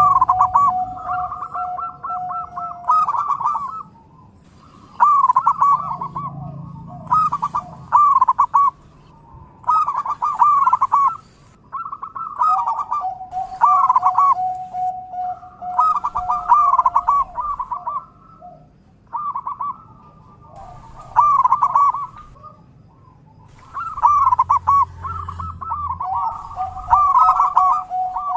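Zebra dove (perkutut) cooing: rapid, bubbling phrases of quick rising and falling notes, repeated every two to three seconds, sometimes over a long held lower note.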